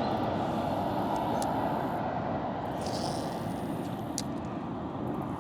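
Airplane passing overhead, its steady drone slowly fading away.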